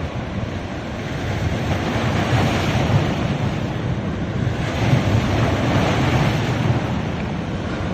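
Sea waves breaking on a sandy beach, the surf swelling twice as waves wash in, with wind rumbling on the microphone.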